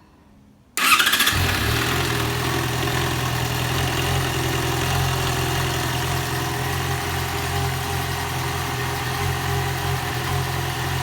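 Yamaha XJ6 600cc motorcycle's inline-four engine started with a brief starter whine a little under a second in, catching at once and then idling steadily. The owner complains of a metallic noise from the top end, which he puts down to the cylinder head, tappets or a connecting-rod bushing.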